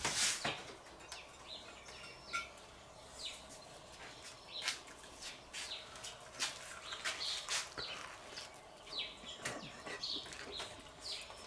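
Small birds chirping in short, scattered calls over a quiet outdoor background.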